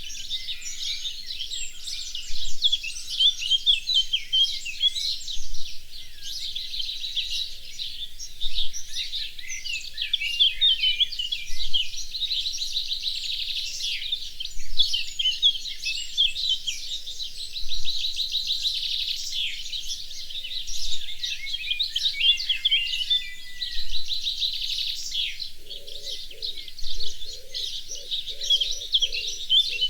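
A dense chorus of small songbirds chirping and trilling, many high notes overlapping. Near the end a lower call joins in, short notes repeated about twice a second.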